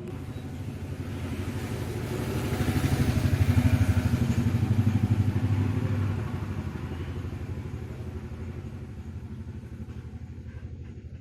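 A motor vehicle's engine passing by: it grows louder over the first few seconds, is loudest around the middle, then slowly fades away.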